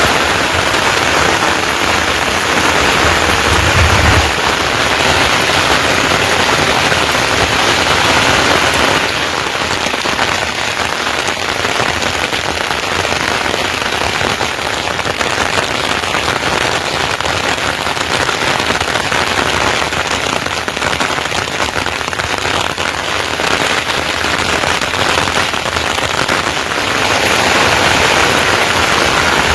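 Heavy rain falling steadily, a loud even hiss crowded with the crackle of individual drops striking a surface, with a short low thud about four seconds in.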